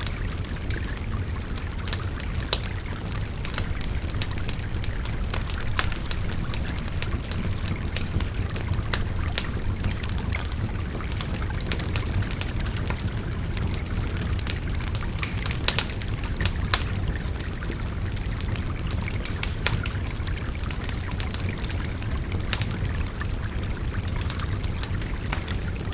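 A wood fire crackling, with many sharp pops scattered irregularly, over the steady rush of a babbling river.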